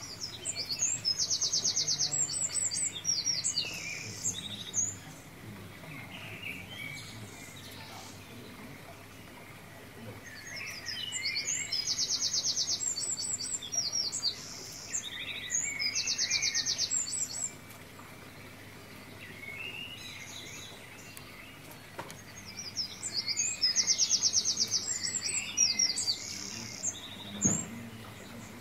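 Birdsong: rapid, high trills and chirps in three long bursts of several seconds each, with quiet gaps between.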